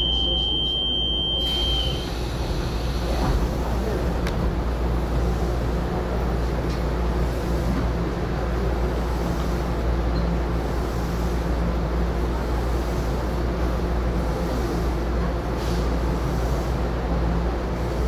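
A steady, low mechanical rumble from a train standing at a station, heard from inside the carriage. A high, steady beep sounds for about the first two seconds.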